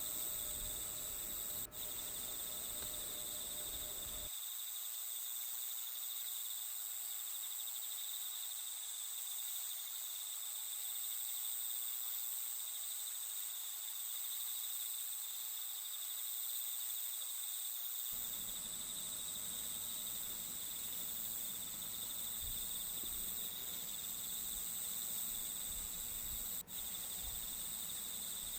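Steady chorus of chirping insects, a high continuous shrill with no pauses, breaking off for an instant twice.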